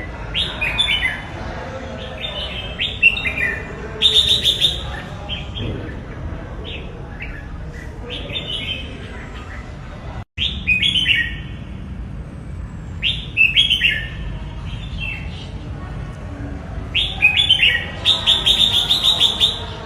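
Red-whiskered bulbul singing: short, quick whistled phrases in bursts every second or few, with a longer run of phrases near the end, over a steady low background noise. The sound cuts out for a moment about halfway.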